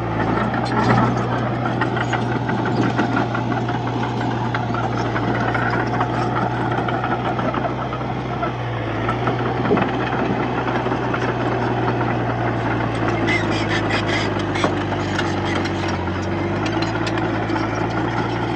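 Komatsu D31P bulldozer's diesel engine running steadily under load, its note dipping briefly near the middle, with a run of clatter in the last third.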